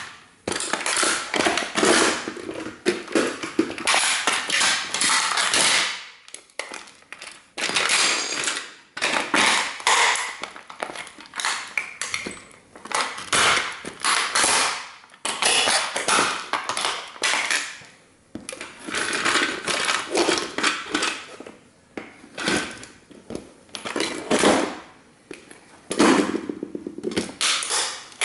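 A 1:18 scale model toy car being stomped and trampled under sneakers, crunching and cracking as it breaks. The cracking comes in repeated bouts of a second or two with short pauses between them.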